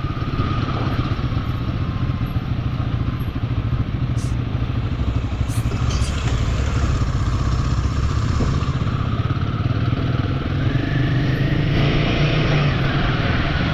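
Royal Enfield motorcycle engine running steadily with road and wind noise, its note rising a little near the end.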